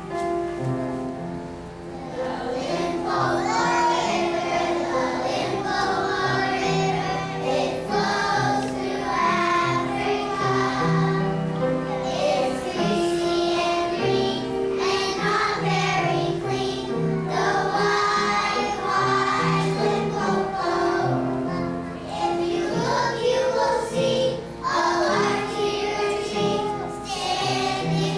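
A group of young children singing a song together over an instrumental accompaniment; the voices come in about two seconds in.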